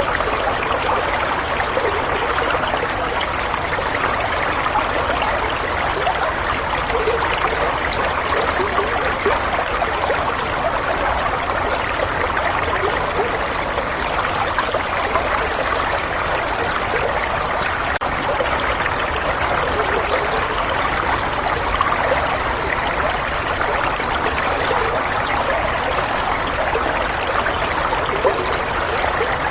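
Running water, a steady stream trickling and bubbling without a break.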